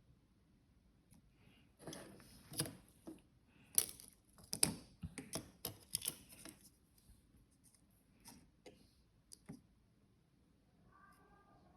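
A run of small clicks, taps and crinkles from hands handling objects at close range, densest for several seconds, then a few scattered clicks.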